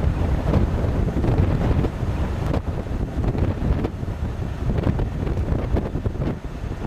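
Wind buffeting the microphone: a loud, low rush that rises and falls in gusts, easing a little after about two seconds.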